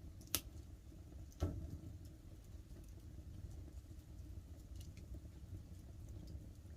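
Wood campfire crackling, with two sharp pops about half a second and a second and a half in and a few faint ticks later, over a steady low rumble of the burning fire and light rain pattering.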